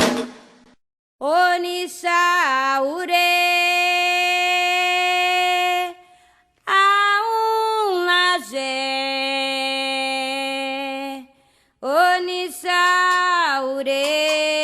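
Unaccompanied solo voice singing a Candomblé chant: three long phrases of held, sliding notes with short breaks between them, and no drums.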